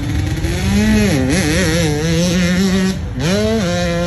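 Hillclimb racing motorcycle engine at high revs, its pitch rising and wavering as the throttle is worked on the climb, dropping briefly about three seconds in and climbing again.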